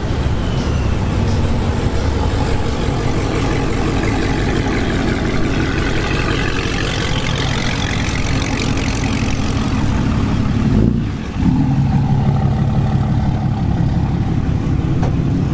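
Car engine running steadily, with a brief dip in the sound about eleven seconds in before it carries on.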